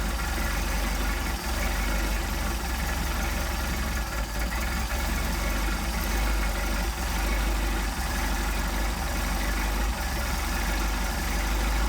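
Mercedes-Benz 190SL four-cylinder engine with twin Solex carburetors idling steadily while the idle mixture screws are turned, the idle speed shifting slightly as the mixture passes through its best setting.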